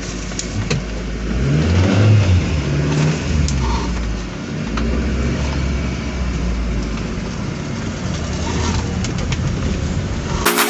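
Car engine pulling away and driving on, rising in pitch about two seconds in, then running steadily. Music starts at the very end.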